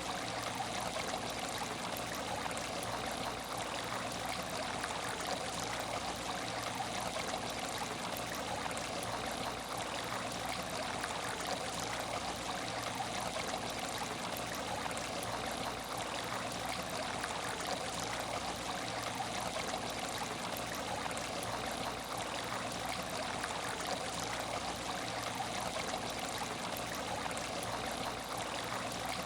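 Aquarium water trickling and splashing steadily, with no let-up.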